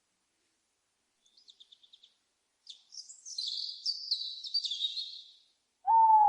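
Owl calls: a quick run of high notes, then a longer stretch of high, scratchy chattering calls, and near the end a loud single lower hoot-like note that falls slightly in pitch.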